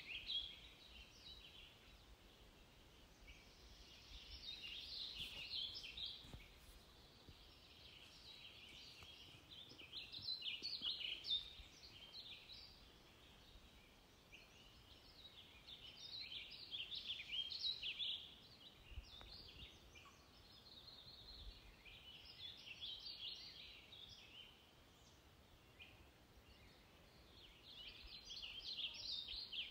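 Faint songbird chirping and twittering in short bursts of a second or two, coming back every five or six seconds, over a low steady background hiss.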